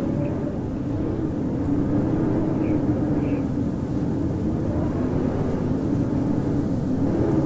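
Howling winter wind: a steady low rush with a moaning tone that slowly wavers up and down in pitch.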